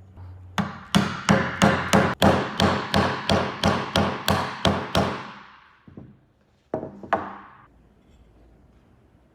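Hammering: a steady run of about fourteen sharp blows, roughly three a second, each ringing briefly, then two more blows close together a couple of seconds later.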